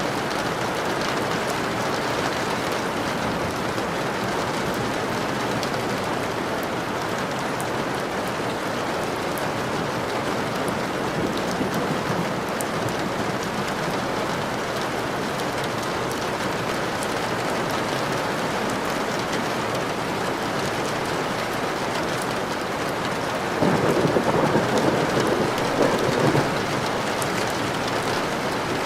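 Steady rain falling, with a roll of thunder near the end that swells louder for about three seconds.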